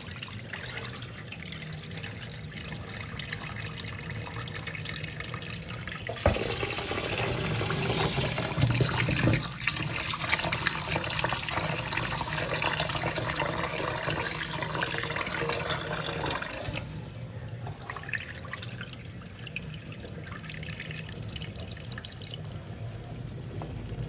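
Water running from a kitchen tap into a sink. The flow gets louder about six seconds in, with a knock as it does, and drops back to a softer trickle about seventeen seconds in.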